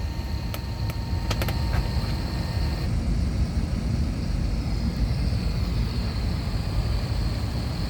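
Steady low rumble of cabin noise inside an Airbus A321 airliner on the ground, with a few light clicks in the first two seconds and a faint high whine that fades out about three seconds in.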